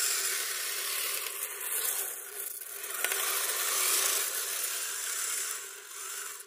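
Radio-controlled tracked snow vehicles (Kyosho Midnight Blizzard) climbing a hill. Their electric motors and geared drivetrains whine under load while the tracks churn through crunchy, icy snow, growing louder near the middle.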